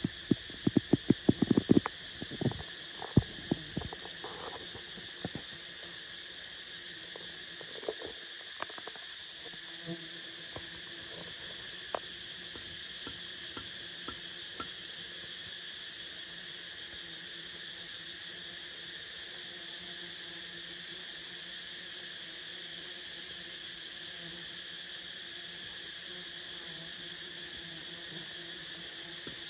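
A steady, high insect chorus of crickets or cicadas in the forest. In the first few seconds there is a rapid cluster of sharp clicks and knocks, then a few scattered ones.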